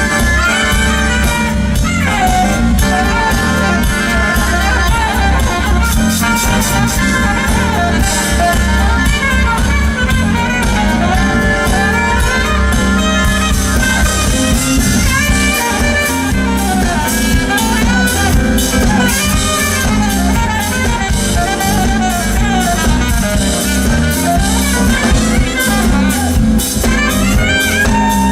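Live smooth-jazz band playing: saxophone melody lines over a drum kit and a heavy, steady low end.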